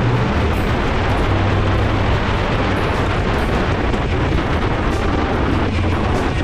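Motorcycle engine running at a steady pace under way, with heavy wind rush over it.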